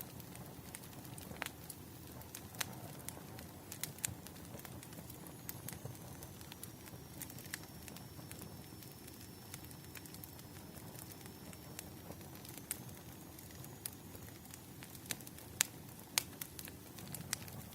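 Wood fire crackling: irregular sharp pops and snaps over a low steady rush of flames, with a faint high whistle in the middle of the stretch.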